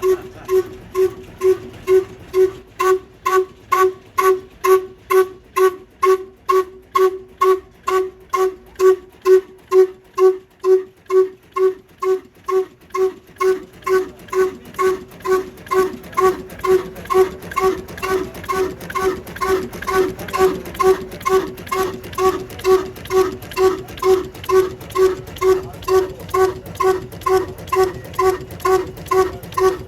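Old single-cylinder 'kala' (black) desi diesel engine running steadily, each exhaust beat a short hooting pulse, about two beats a second.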